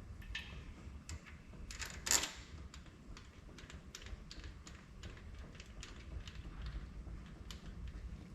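Plastic bucket being handled and set in place under the tractor: irregular light clicks and knocks, with one louder scraping clunk about two seconds in.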